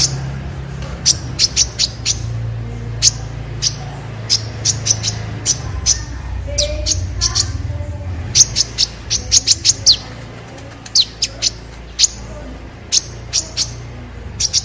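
Kolibri ninja sunbird calling: a run of short, sharp, high chirps in quick irregular clusters, over a steady low hum.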